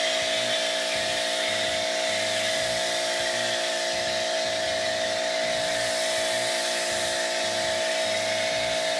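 Husqvarna 2000 PSI electric pressure washer running, its motor and pump giving a steady whine over the hiss of water forced through a foam cannon, laying thick foam.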